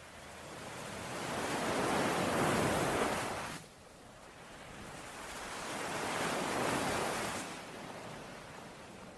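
Sea waves washing onto a shore, two swells of surf. The first builds over about three seconds and stops abruptly; the second rises and falls away shortly before the end.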